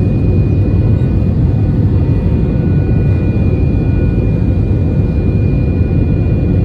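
Jet airliner cabin noise: a steady, loud, low rumble of engines and airflow with a faint high whine held throughout.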